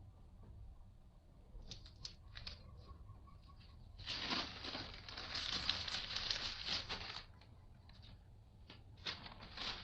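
Rustling and crinkling handling noise with scattered light clicks and taps; a dense stretch of rustling lasts about three seconds in the middle.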